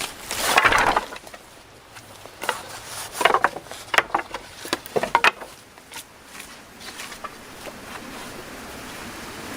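Irregular knocks, snaps and rustling of wood and brush being handled, with a louder burst of rustling just under a second in.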